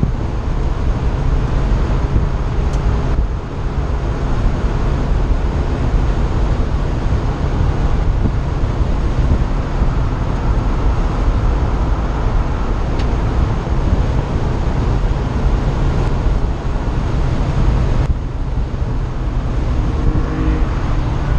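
Car engine running hard at track speed, heard from inside an open-top cockpit under heavy wind and road noise. The engine note breaks briefly about three seconds in and again near the end, around a gear change.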